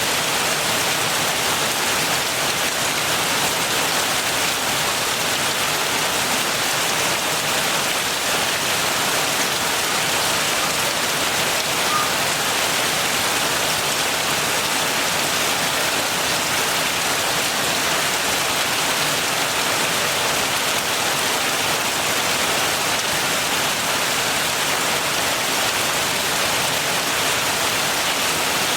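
Steady heavy rain falling, an even hiss of many drops striking surfaces, with no thunder.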